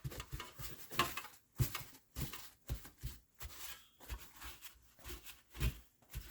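Small metal trim pieces being handled on a workbench: irregular light knocks and clatters, several a second, with rubbing and scraping between them.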